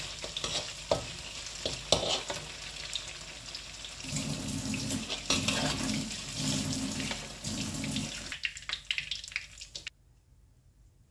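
Tofu deep-frying in hot oil in a wok: a steady sizzle with scattered clicks and scrapes of a wire spider strainer against the wok as the pieces are turned and lifted out. The sizzle fades about eight seconds in, and near silence follows.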